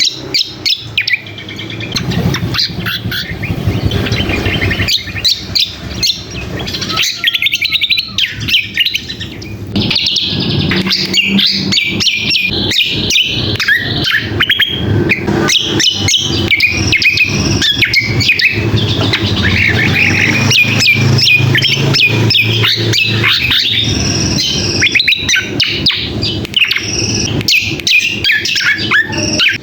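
Cucak kombo (kecial kombok) calling in a busy, noisy run of rapid chirps and trills, the kind of call used as a lure for males, with a low hum underneath at times.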